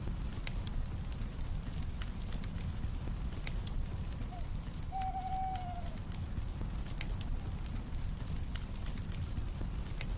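Campfire crackling with scattered sharp pops over a low rumble, under a steady high chirring of night crickets. About four and a half seconds in an owl hoots: a short note, then a longer one that drops at its end.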